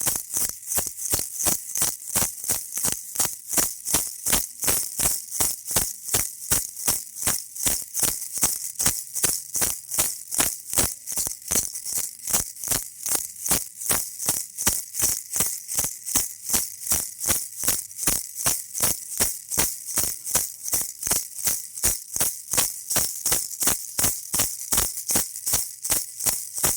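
Baby rattle shaken in a steady, even rhythm, about two and a half shakes a second, each shake a short, bright rattle.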